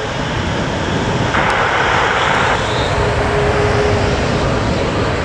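F-15 fighter jets' engines running on the runway: a steady jet roar with a steady whine through it, and a brief burst of hiss about a second and a half in.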